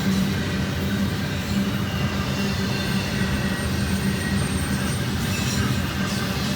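Intermodal stack train rolling past: a steady rumble and clatter of the cars on the rails with a constant low hum, and a faint high wheel squeal.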